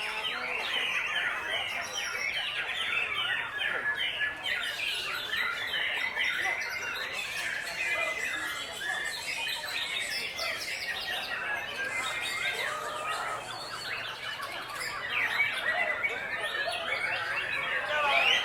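Many caged white-rumped shamas (murai batu) singing at once in a contest round: a dense, unbroken chorus of overlapping whistles and chirps.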